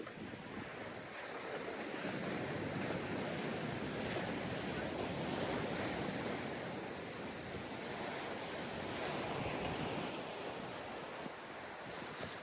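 Ocean surf washing onto a sandy beach: a steady rush of breaking waves that swells over the first couple of seconds and eases off near the end.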